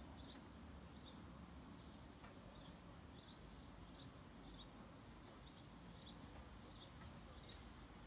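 A bird chirping faintly, short high calls repeated about twice a second at uneven intervals, over a low steady background noise.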